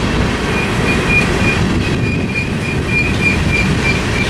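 Grain freight train rolling past with a steady low rumble of wheels on rail, and a short high-pitched tone repeating about three times a second.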